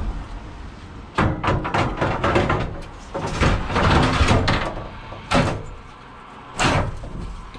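Clattering knocks for a few seconds, then two sharp slams about a second apart.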